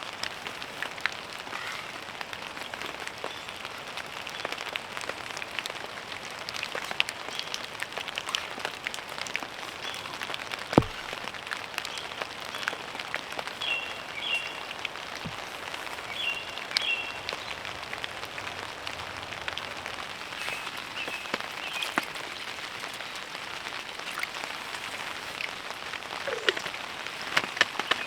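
Steady rain pattering on a tarp, with countless small drops ticking. One sharper knock about eleven seconds in.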